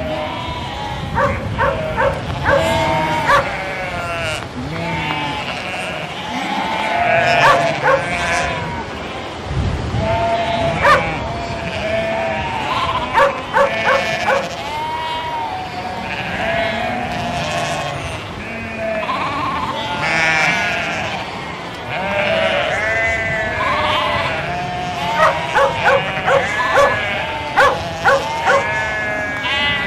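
A flock of sheep bleating, many calls overlapping, with a dog barking in short quick runs, most of them near the end.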